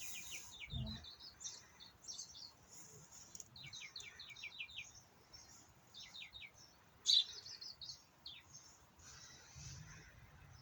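Small songbirds chirping in the background: quick series of short, high notes in several bursts, the loudest about seven seconds in.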